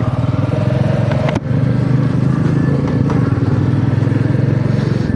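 Royal Enfield Meteor 350's single-cylinder engine running steadily as the bike is ridden, with one short click and a brief dip about a second and a half in.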